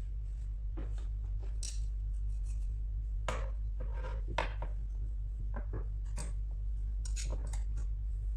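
Scattered short scrapes, taps and rustles of hands handling an iPad and its packaging, over a steady low hum.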